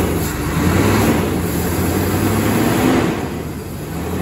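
Small-block Chevy 350 V8 running in the pickup, a steady low drone that eases slightly about three seconds in and picks back up.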